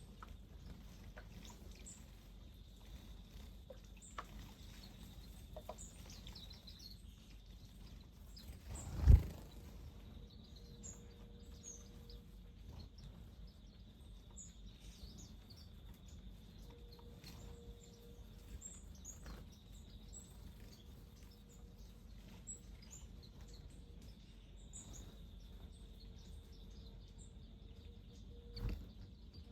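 Small wild birds giving short, scattered high chirps over quiet outdoor ambience. A single low thump about a third of the way in and a softer one near the end.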